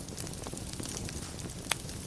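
Fire burning in a fireplace, crackling steadily with many small snaps and one sharp, louder pop near the end.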